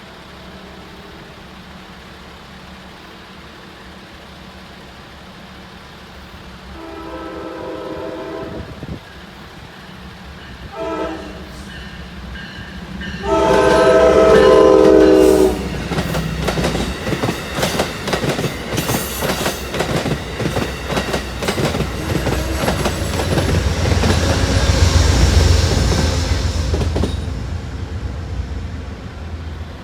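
Amtrak Downeaster passenger train sounding its horn as it approaches a grade crossing: a long blast, a short one, then a long, loud blast. The train then passes, with rapid clickety-clack from the wheels over the rail joints and a rumble that builds to a peak and fades near the end.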